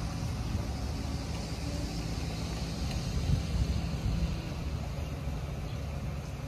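2011 Ford Crown Victoria Police Interceptor's 4.6-litre V8 idling steadily with a low, even hum.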